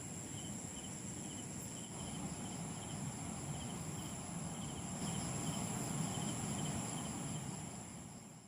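Crickets and other insects calling: a steady high-pitched trill with a repeating chirp, over a low rumbling background noise. It all fades out near the end.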